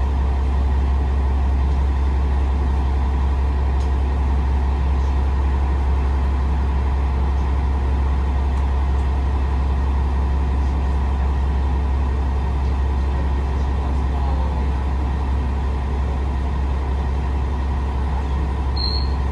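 KiHa 47 diesel railcar heard from inside the cabin: a steady low rumble of its diesel engine and running gear, even in level throughout. A brief high chirp sounds near the end.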